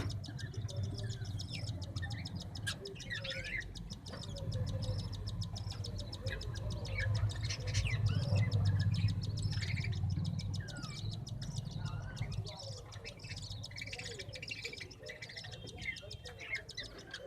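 Many small birds chirping in short, quick calls, over a steady low hum that grows louder in the middle.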